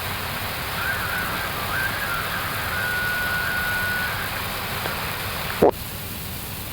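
Steady hiss of an Airbus A321neo flight deck in flight, the airflow and air-conditioning noise of the cockpit. A faint thin tone sounds in the middle, and a short click comes near the end.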